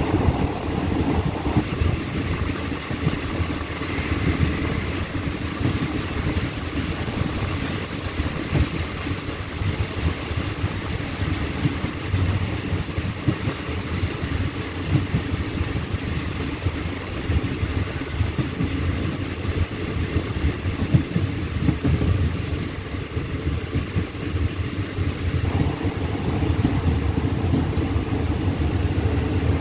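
Steady rumble and clatter of a moving passenger train, heard from inside a carriage with the window open: steel wheels running on the rails.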